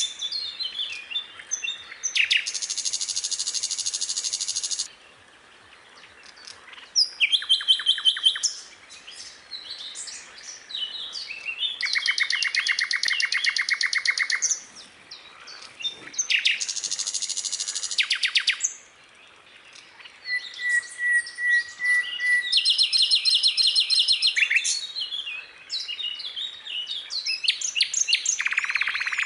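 Skylark singing a long, varied song: fast trills and rattling runs of repeated notes, mixed with short whistles and chirps, broken by brief pauses of a second or two.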